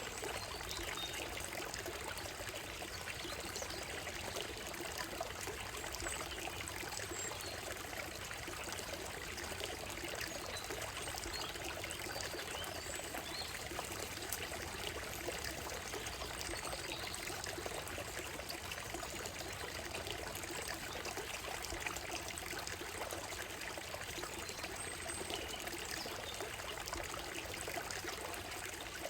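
Shallow stream running over a gravel and stone bed, a steady trickling and babbling with no breaks. A few faint bird chirps sound high above the water now and then.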